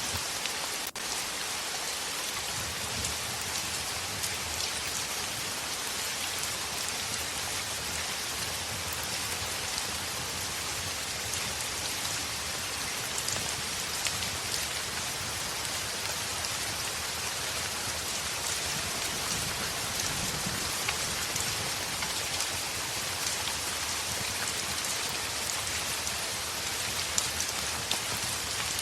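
Heavy rain falling steadily on a window: an even hiss flecked with many small sharp drop ticks.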